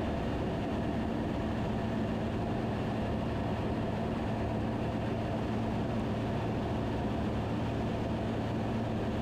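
Steady drone of a Van's RV-10's engine and propeller at reduced approach power, heard inside the cockpit, with an even low hum and no change in pitch.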